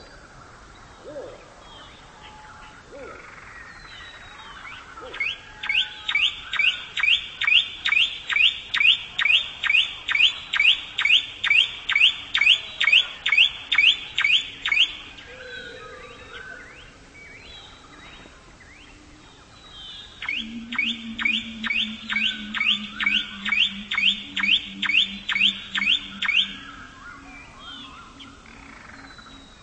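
A bird calling in two long runs of identical rising chirps, about three a second: the first lasts about ten seconds from around five seconds in, the second about six seconds from around twenty seconds in. A low steady drone sounds under the second run, over a faint natural background.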